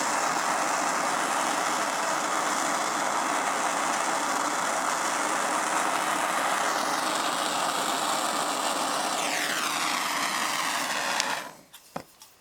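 Propane torch flame running with a steady hiss while it heats a copper pipe to melt a repair rod into the break. Toward the end its sound sweeps down in pitch, and the flame cuts off about eleven seconds in, followed by a couple of sharp clicks.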